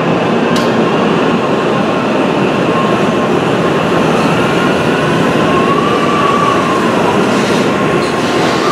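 Tokaido Shinkansen train pulling out along the platform and gathering speed: a steady, loud rolling rumble of wheels on rail with a faint thin whine that rises slightly about midway. A single sharp click about half a second in.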